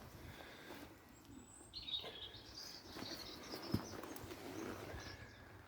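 Faint birds chirping in the background, with a soft knock about halfway through.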